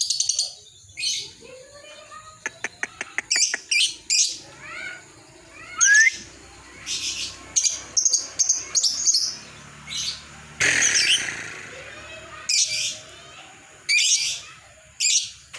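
Lovebirds calling in short, sharp, high-pitched chirps and squawks, one after another, with a quick run of clicks about three seconds in and a brief rush of noise about eleven seconds in.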